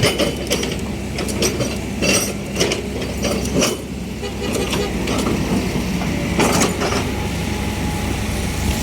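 Heavy diesel machinery running steadily, with irregular metallic clanks and rattles over the engine rumble.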